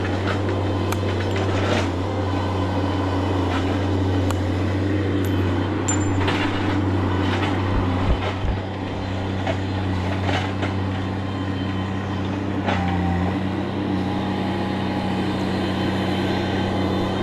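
A large engine running steadily at constant speed, with scattered clicks and knocks over it and a slight change in its note about two-thirds of the way through.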